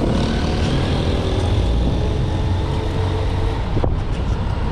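City street traffic heard from a moving bicycle: a steady low rumble of passing motor vehicles, with a few faint engine tones.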